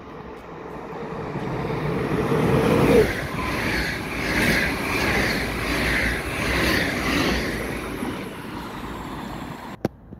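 NS double-deck electric passenger train passing at speed. A rushing rumble and steady hum build as it approaches, the hum cutting off about three seconds in as the front goes by. Then the wheels clatter regularly, a little more than once a second, as the carriages pass, before the noise fades. A sharp click comes near the end.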